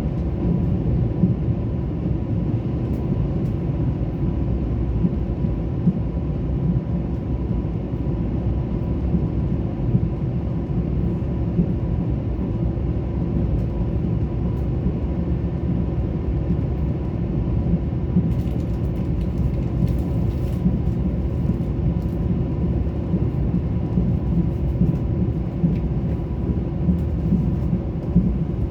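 Korail Mugunghwa-ho passenger train running along the track: a steady, even low rumble with a faint steady hum, and a few light ticks and rattles about two-thirds of the way through.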